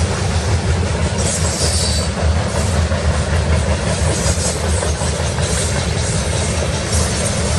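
Freight train's covered hopper cars rolling past on the near track: the steady noise of steel wheels on the rails.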